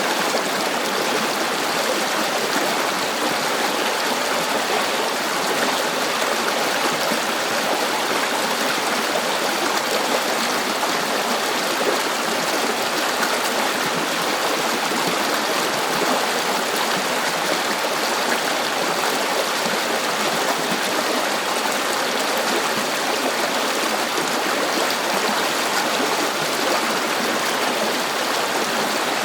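River water flowing over rocks: a steady, even rush with no changes.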